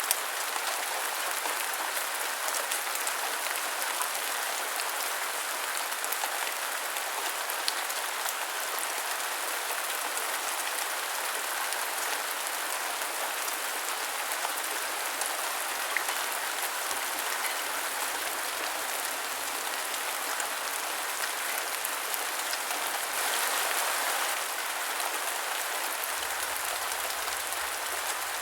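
Steady rain falling on a hard surface, an even hiss with scattered close drops ticking, swelling slightly for a couple of seconds about two-thirds of the way through.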